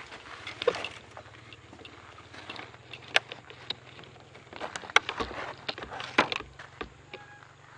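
Mountain bike moving over a rough dirt trail: scattered clicks, knocks and rattles from the bike, with a steady low hum underneath.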